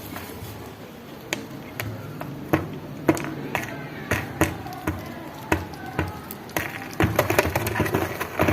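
A run of sharp knocks or chopping strokes, about two a second, becoming denser and louder near the end.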